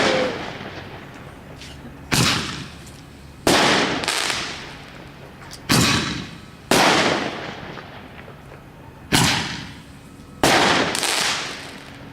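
Consumer fireworks going off: about seven sharp bangs, spaced one to two and a half seconds apart, each dying away over about a second.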